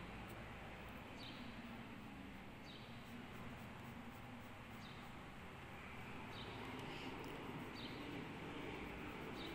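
A small bird chirping faintly, a short high chirp every second or two at an uneven pace, over a soft steady background noise.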